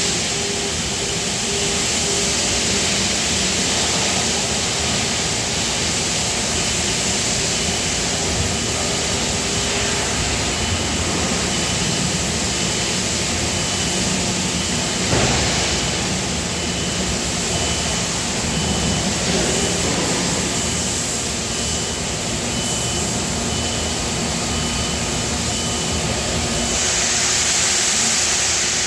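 Steady factory machinery noise around a die-casting machine, a continuous roar with no break, with a faint high beep repeating about once a second until near the end.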